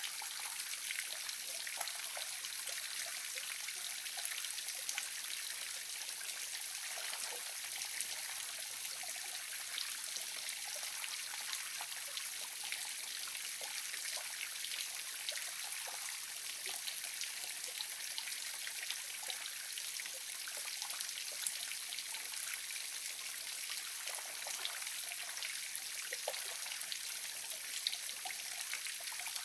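Small waterfall splashing and trickling steadily, with many small drips and splashes in the continuous rush of water.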